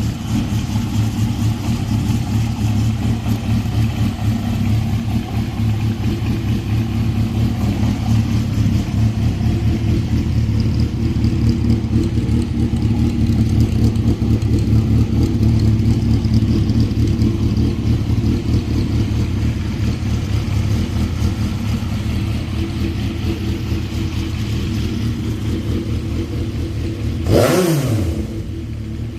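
Honda CBX550F's air-cooled inline-four, breathing through an aftermarket exhaust, idling steadily, then blipped once in a quick rev that rises and falls about two seconds before the end.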